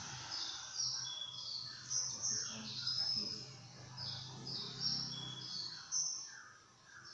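Small birds chirping, short high calls repeating about two or three times a second, over a steady low hum.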